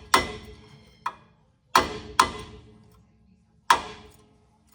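A hammer tapping a brake pad into its caliper bracket, five sharp metal-on-metal taps spaced unevenly, one of them fainter, each ringing briefly. These are persuasion taps to seat the pad, and afterwards the pads are staying in place.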